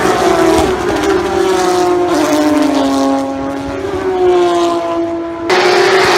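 Race car engines running at speed, the engine note falling over the first few seconds and rising again about four seconds in. About five and a half seconds in it changes abruptly to louder, hissier engine noise.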